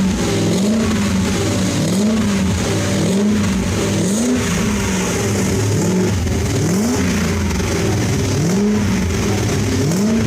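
BMW E38 740i V8 revved again and again through an exhaust with the rear mufflers deleted and the catalytic converters gutted. The note climbs and drops back about eight times in ten seconds.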